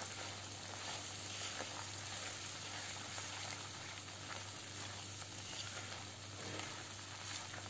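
Ground masala paste sizzling steadily in hot oil in a kadhai as it is stirred with a silicone spatula, with small crackles through the hiss. It is being fried until the oil separates.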